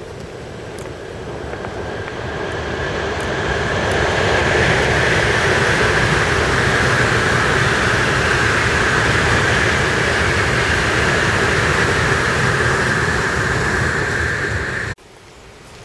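Tokaido Shinkansen high-speed train crossing a steel railway bridge: a loud rushing rumble that builds over the first few seconds and then holds steady, with a high steady tone running through it. The sound cuts off abruptly about fifteen seconds in.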